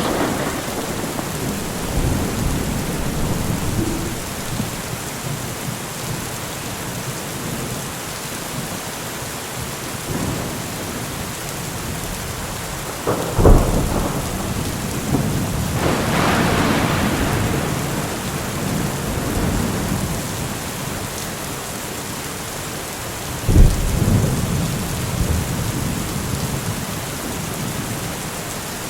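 Steady rain with thunder: two sharp thunder cracks about 13 and 24 seconds in, and a rolling rumble that swells a few seconds after the first.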